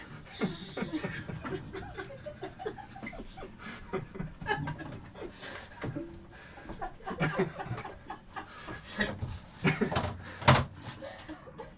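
Low voices and bits of laughter mixed with scattered knocks and clatter, with the loudest sharp knocks about ten and a half seconds in.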